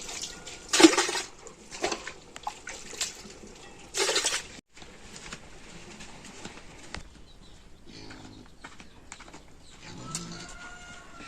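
Pigs grunting and squealing, with two short loud noises about one and four seconds in.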